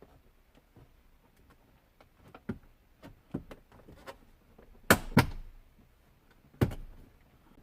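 Scattered light clicks and taps from work on car dashboard trim, with a pair of sharp knocks about five seconds in and another just before the end.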